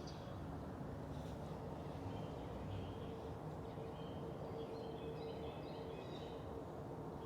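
A low outdoor rumble with a faint, steady horn-like tone held through it, louder in the second half: the weird trumpet noise in the sky. Small birds chirp briefly in the middle.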